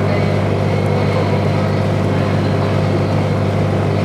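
Sightseeing boat's engine running steadily at cruising speed, an even low drone heard from inside the passenger cabin.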